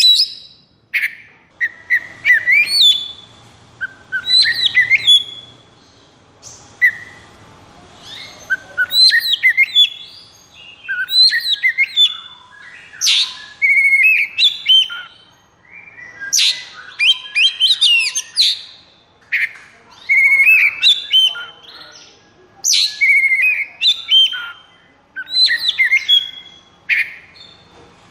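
Oriental magpie-robin (kacer) singing: loud, varied phrases of whistles, glides and quick rattling notes, each about a second long, a new phrase every second or two.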